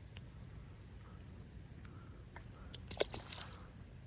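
Steady high-pitched insect chorus, a continuous trill. A sharp click comes about three seconds in, followed by a few fainter ticks.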